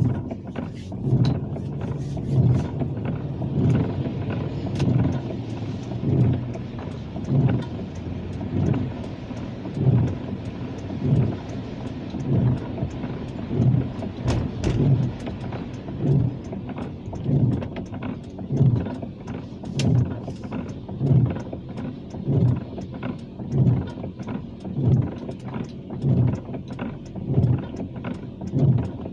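Car cabin on a rainy drive: steady engine and road noise with a low thump a little under once a second and a quarter, the even beat of the windshield wipers sweeping.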